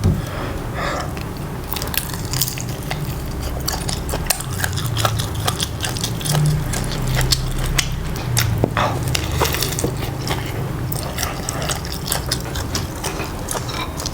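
Close-miked eating: biting and chewing with wet mouth sounds and many small, sharp crunchy clicks.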